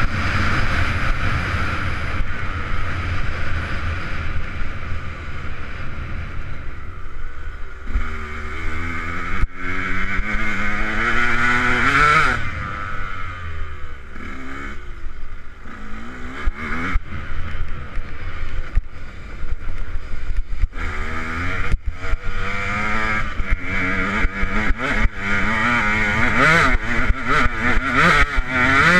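Single-cylinder two-stroke engine of a 2008 KTM 125 SX motocross bike being ridden hard, its pitch climbing and dropping again and again as the throttle opens and shuts through the gears, with occasional sharp knocks.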